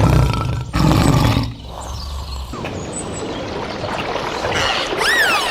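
A loud, deep animal call in the first second and a half, followed by steady outdoor background noise; near the end come short whistled bird calls that rise and fall.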